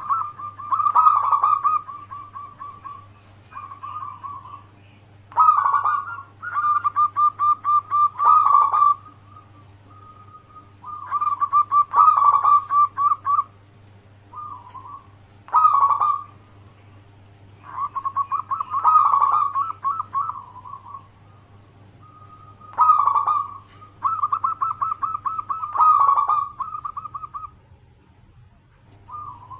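Zebra dove (perkutut) cooing, its call known as manggung. It gives phrase after phrase of rapid stuttering coos, each a second or a few seconds long, with short pauses between them.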